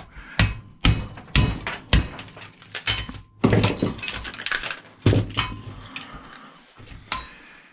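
Ball-peen hammer striking and breaking apart the plastic shell of a cash register: a series of sharp blows, about four in the first two seconds and a few more after a short pause, with cracking and clinking of pieces.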